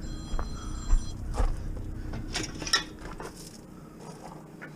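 Metal bed-frame parts clinking and knocking as they are handled, a few sharp strikes spread over the first three seconds. There is a brief high ringing tone in the first second.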